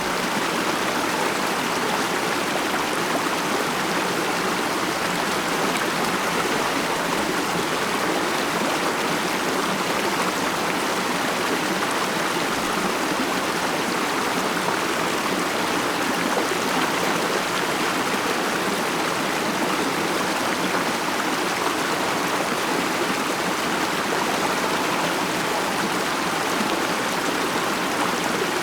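A stream running over rocks: a steady, even rush and babble of water.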